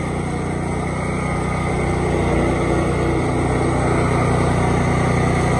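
Riding lawn mower engine running steadily, getting a little louder about two seconds in.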